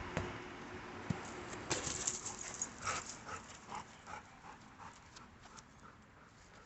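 A dog making a run of short rhythmic sounds, about two and a half a second, fading away, after a few sharp knocks in the first two seconds.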